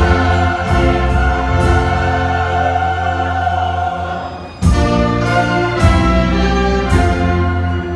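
Large church choir with orchestra performing a hymn: a long held chord that fades, then the full ensemble comes back in loudly about halfway through with strong accented beats.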